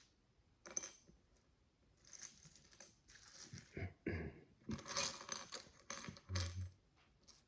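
Tiny plastic micro bricks clicking and clattering under hands, a run of short irregular rattles with a low knock near the end.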